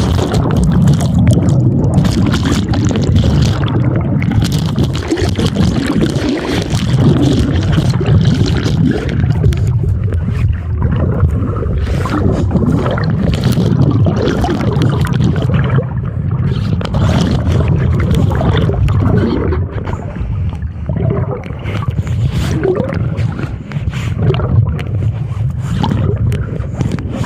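Strong wind buffeting the microphone as a loud, uneven rumble, over water sloshing and splashing around a kayak in choppy water.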